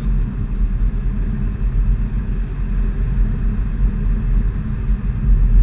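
2016 Subaru WRX's turbocharged flat-four running through a GReddy SP cat-back exhaust at steady throttle. It makes an even, low rumble with road noise, heard from inside the cabin.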